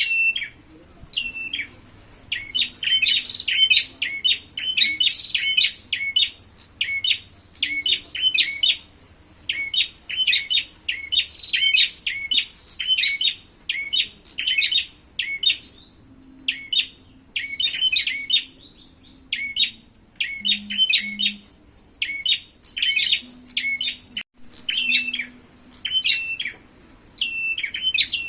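Prenjak songbird giving its fighting call: rapid runs of sharp, high chirps repeated over and over in short bursts with brief pauses between them.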